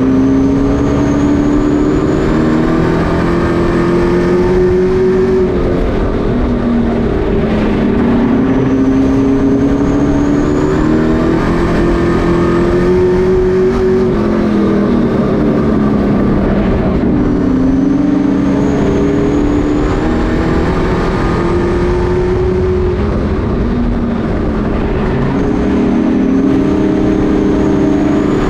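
Pack of Pro Truck race trucks running laps on a short oval, their engines climbing in pitch on the straights and dropping back into the turns in repeated waves about every 8 to 9 seconds, with a faint high whine rising on each climb.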